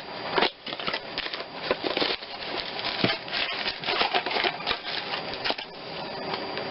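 Rapid, irregular clicks and rattles of a new distributor cap and its packaging being handled.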